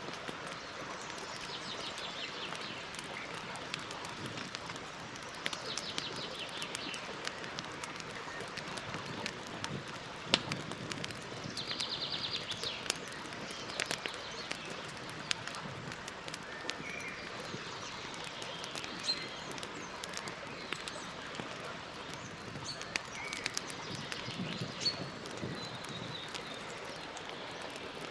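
Campfire crackling, with sharp pops and snaps scattered through a steady hiss. Birds sing short high trills and chirps now and then.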